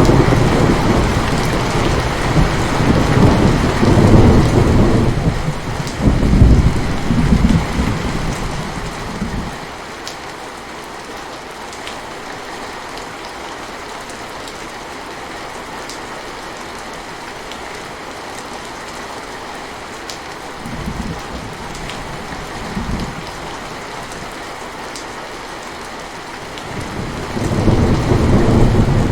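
Steady rain falling, with rolling thunder: a long rumble through the first third, two short faint rumbles in the middle, and another roll building near the end.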